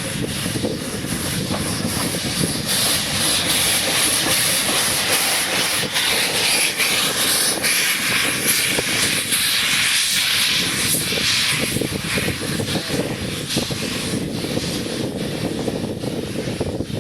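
Steam locomotive venting steam: a loud, steady hiss that swells about three seconds in and eases off again around twelve seconds.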